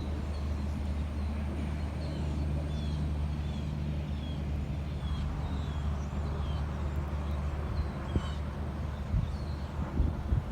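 A small bird repeating short, high, falling chirps about twice a second, over a steady low rumble.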